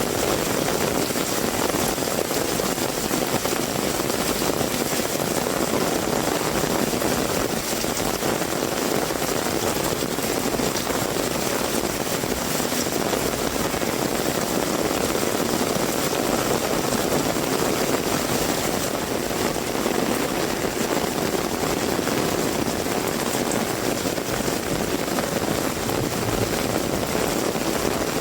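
Heavy rain falling steadily: a dense, even rushing hiss with a low rumble under it, unbroken throughout.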